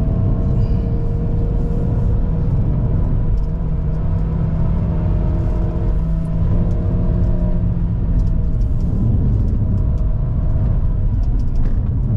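GAC GS3's 1.5-litre naturally aspirated petrol engine pulling steadily under load on a hill climb, with road rumble, heard inside the car. Its steady note shifts about eight seconds in.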